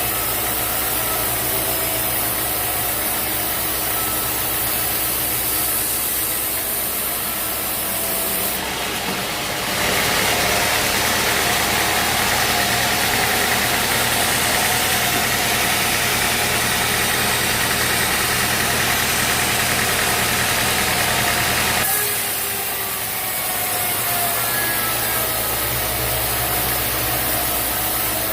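Sawmill engine running steadily. From about ten seconds in, the blade cuts through a log for roughly twelve seconds with a loud, even hiss, then the engine runs on by itself.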